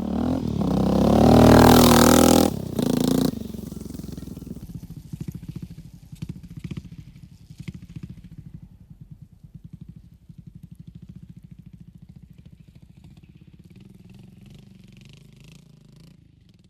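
Honda NX650 Dominator's single-cylinder four-stroke engine revved hard for about three seconds. It then drops back to a steady, even beat that slowly fades away.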